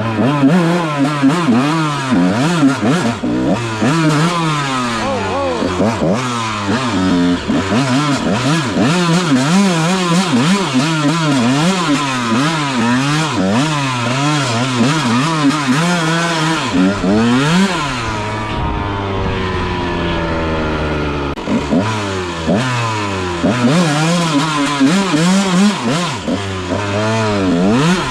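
Honda CR125 two-stroke single-cylinder engine revving up and down over and over as the dirt bike is ridden, its pitch climbing and dropping about every second. About two-thirds through it settles lower and steadier for a few seconds, then revs hard again.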